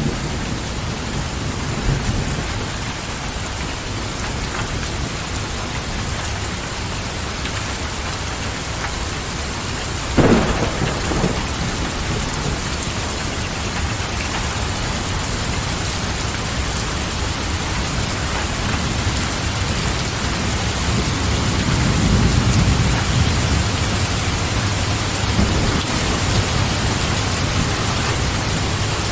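Steady rain falling, with one sudden sharp crack about a third of the way through and a low rumble swelling a little past two-thirds through.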